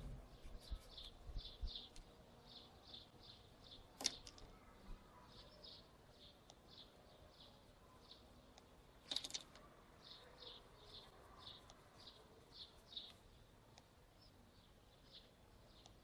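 Faint, high chirping from a small bird, several short chirps a second in uneven runs, with two sharp clicks about four and nine seconds in.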